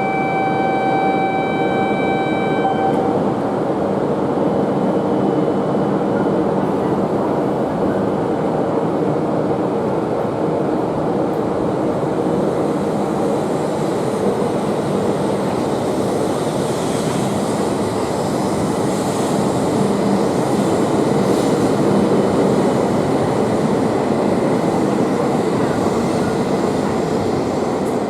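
Tohoku Shinkansen train running at the platform: a steady, loud rush of motors and wheels that swells a little past the middle. A held tone stops about three seconds in.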